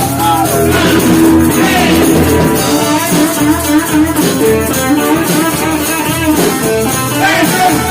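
A band playing an instrumental passage with guitar and drums, with the guitar lines bending in pitch.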